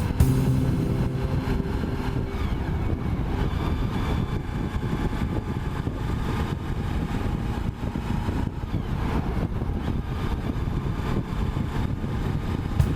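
Motorcycle on the move: the engine is running steadily under a heavy low rumble of wind and road noise. A clear engine note sounds for the first couple of seconds, then is mostly buried in the rumble.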